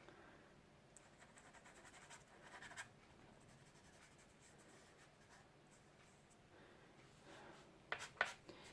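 Faint scratching of a soft pastel stick stroked across Canson Mi Teintes paper, with a few sharper strokes near the end.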